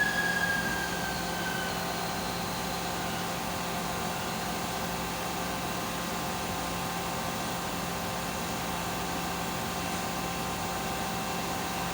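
5-axis CNC machine running with a steady mechanical hum. In the first two seconds a high whine falls in pitch and fades out.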